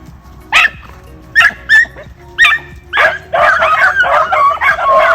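A pack of beagles giving tongue: a few single barks, then from about three seconds in several hounds baying together, overlapping. This is typical of beagles running a rabbit's scent trail.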